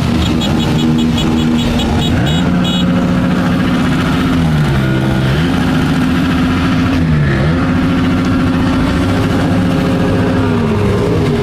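Motorcycle engine at riding speed, its pitch climbing, holding and dropping back about three times as the throttle is opened and eased off. A fast high ticking sounds over the first couple of seconds.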